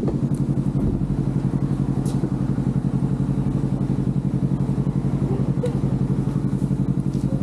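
Motorcycle engine idling steadily, with a fast even pulse and no revving.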